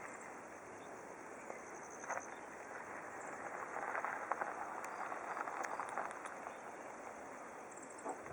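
Faint rush of a distant jet airliner's engines, swelling about four seconds in and easing off again, with insects chirping high and thin.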